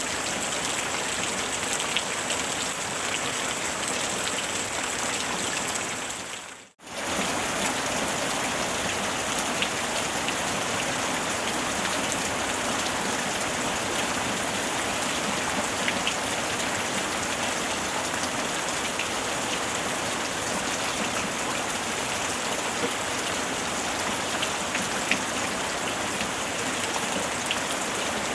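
Steady rain: a dense, even hiss with scattered individual drop ticks. The sound fades out briefly to near silence about seven seconds in, then comes straight back at the same level.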